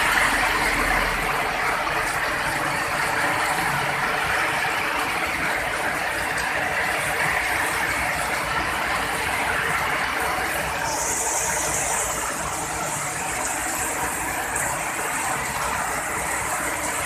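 Heavy rain falling steadily, an even hiss, with a brighter, hissier layer of rain joining about eleven seconds in.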